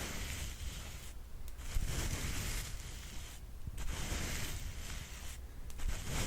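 ASMR brush sweeping in slow, even strokes, a soft bristly swish about every two seconds with short pauses between.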